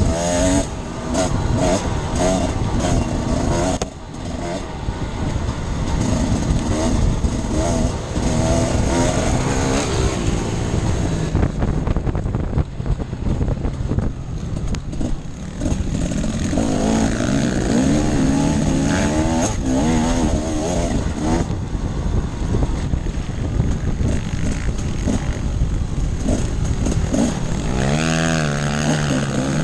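Enduro dirt bike engine being ridden off-road, its revs rising and falling over and over as the throttle is worked. The engine eases off briefly about four seconds in.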